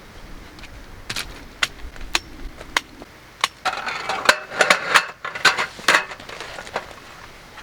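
A string of sharp clicks and knocks of hard objects, with a dense clatter about four to six seconds in.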